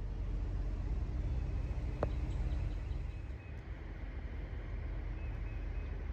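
Steady low rumble of a semi truck's diesel engine running in the yard, with a single sharp click about two seconds in.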